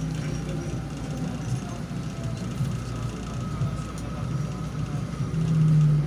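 Light-rail train heard from inside the car as it pulls into a station: a steady low rumble of wheels and running gear with a faint steady whine. A louder low hum for about the last second cuts off suddenly.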